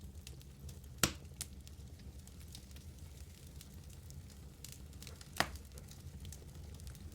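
Wood fire burning in a fireplace: a low steady rumble of flames under scattered small crackles, with two loud snaps of the logs, one about a second in and another about five seconds in.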